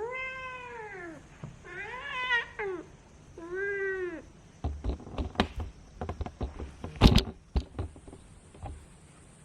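Ragdoll cat giving three drawn-out, complaining meows, each rising and then falling in pitch, upset at having its paw fur trimmed. They are followed by a scatter of sharp clicks and knocks, the loudest a thump about seven seconds in.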